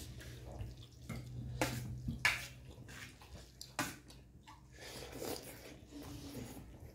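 Close-up eating sounds of a mukbang: wet chewing and smacking, with several sharp clicks.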